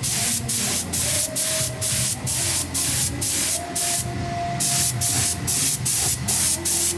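Rapid, repeated bursts of spray hissing, about three a second, with short gaps between.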